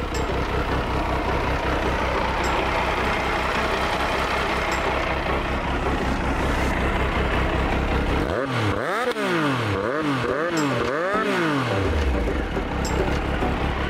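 Triumph Sprint ST 955i's fuel-injected three-cylinder engine idling, then revved with three quick throttle blips about eight seconds in, each rising and falling back, before settling to idle again.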